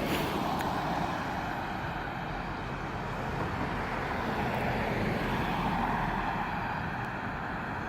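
Yamaha FZ-10's crossplane inline-four running through a Remus exhaust with the catalytic converter removed. It is a steady, noisy rush that swells slightly near the start and again about five seconds in.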